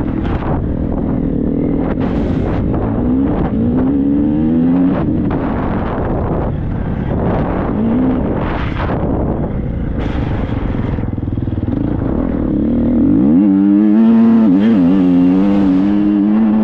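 Triumph 250 motocross bike's engine revving up and down as it is ridden, over a low rumble. About thirteen seconds in the revs climb quickly and then hold high and steady.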